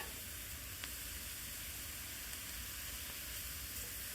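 Vegetables and shimeji mushrooms sizzling steadily in a frying pan as they cook down until they wilt.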